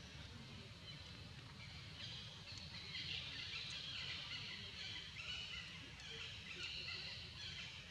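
Birds chirping and chattering, louder from about two seconds in, over a low steady rumble.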